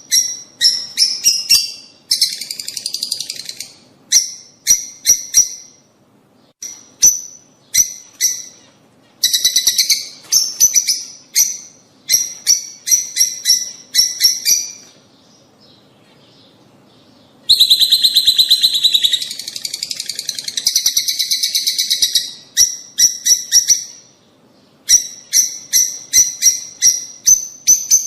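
Lovebirds calling: rapid trains of sharp, high-pitched chirps in short bursts, with a longer run of dense, continuous chattering about two-thirds of the way through.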